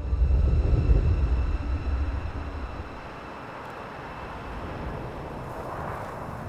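Motorcycle engine rumbling loudly, passing by and dropping away after about two and a half seconds into a steady rushing noise.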